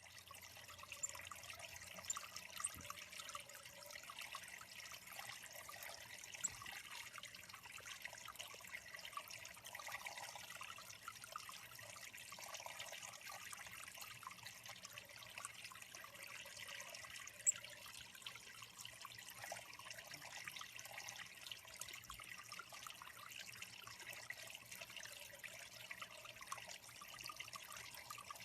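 Water trickling steadily into a small backyard bird pond, a faint even splashing hiss, with a few brief high chips over it.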